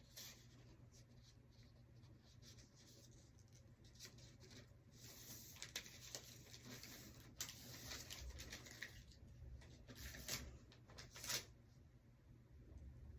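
Faint rustling and crinkling of packaging being handled, with a few light clicks and taps, busier in the second half.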